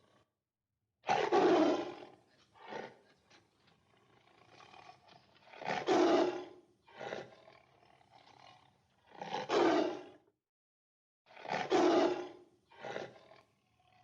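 A large animal roaring repeatedly: four loud, drawn-out roars, most followed by a shorter, weaker one, coming every three to four seconds.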